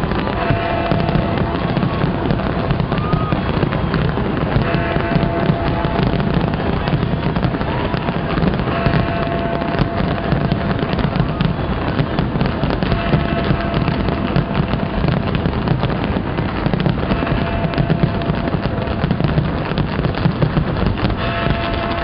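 Large fireworks display going off continuously: dense rapid bangs and crackling over deep booms, with music playing underneath.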